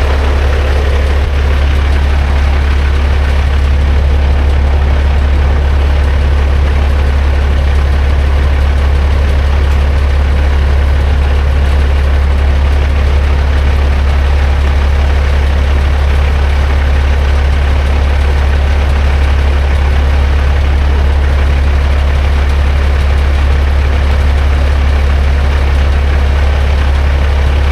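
Heavy diesel engine idling steadily, a deep even rumble that neither revs nor changes.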